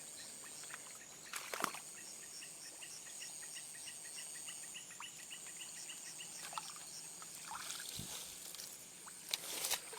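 Night insects chirring in a steady high drone, with a rapid run of short chirps at about four a second for a few seconds in the middle. Two brief splashes of water, one shortly after the start and one near the end.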